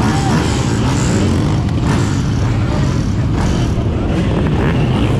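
Dirt bike and ATV engines running loudly together, with short revs rising and falling in pitch.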